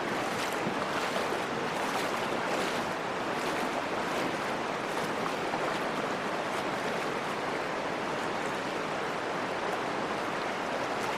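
Steady rush of the Virgin River with the wash and splash of legs wading through knee-deep water.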